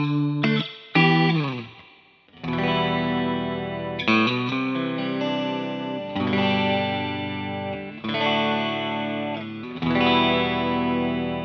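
Fender Telecaster on its middle pickup position, played clean through a Behringer Chorus Orchestra chorus pedal into a Fender Blues Junior tube amp. It opens with a few short notes and a quick downward slide, then strums chords that ring for about two seconds each, with a gentle wavering shimmer from the chorus.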